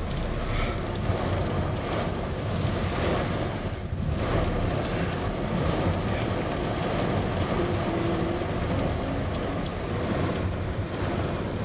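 Heavy rain pouring onto a car, heard from inside the cabin as a steady, dense wash of noise.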